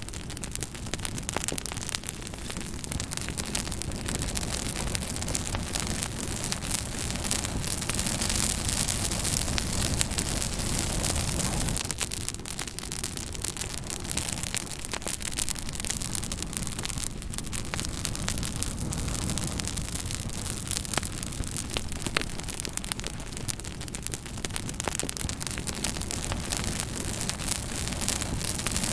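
Fire crackling: a steady hiss with many sharp pops and snaps scattered throughout.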